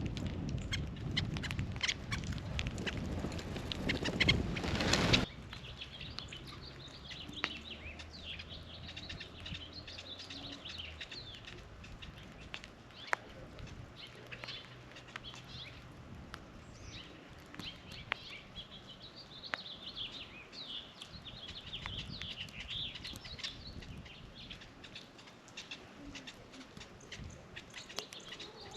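Small birds at a feeder chirping, with many short, high calls overlapping and a few sharp clicks among them. For the first five seconds a louder rustling, crackling noise covers everything, then stops abruptly.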